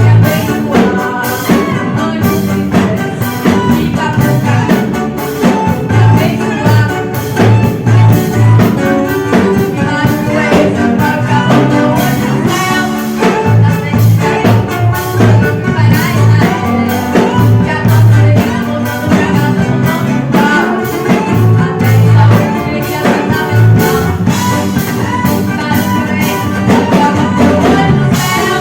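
Live band music at a sound check: drum kit keeping a steady beat under a heavy bass line, with other instruments and some singing.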